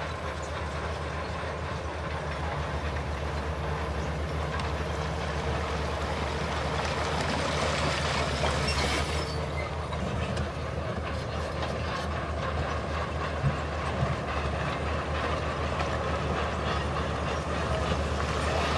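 Bulldozer working, its diesel engine running steadily under a continuous clanking rattle of steel crawler tracks, with two sharp knocks a little past the middle.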